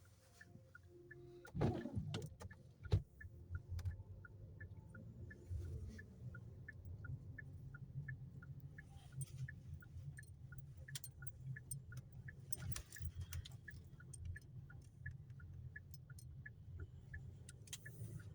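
Car turn-signal indicator clicking steadily, about two to three ticks a second, over the low rumble of tyres and road inside the cabin while driving on a snowy highway. A few louder knocks come about two seconds in, and the clicking stops a few seconds before the end.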